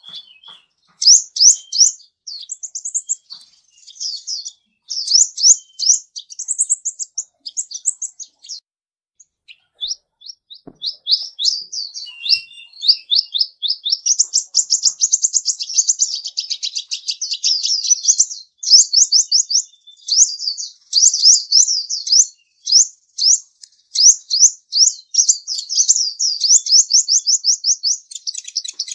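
Small birds chirping in fast runs of short, high notes, with a brief lull about a third of the way in.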